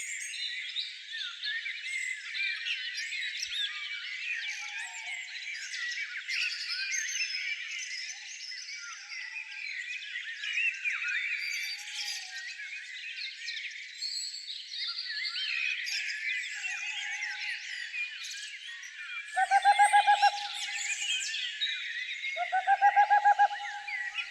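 A dense chorus of many small songbirds chirping and trilling together. Twice near the end a louder, lower call of rapid pulses, each about a second long, stands out.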